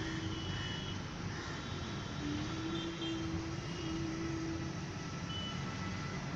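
Steady rumble of road traffic, with a long held tone partway through.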